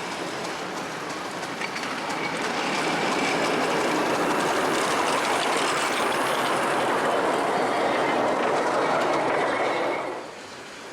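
Miniature railway train running past on its track; it grows louder about two seconds in, holds, then falls away suddenly near the end.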